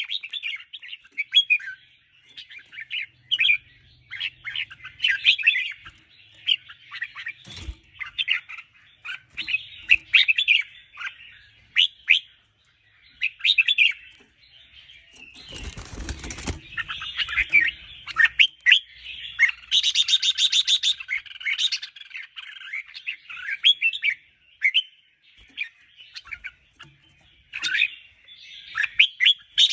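Red-whiskered bulbul singing a steady run of short, quick chirping phrases, with a couple of harsher buzzy calls about two-thirds through and near the end. A brief rustling noise breaks in about halfway through.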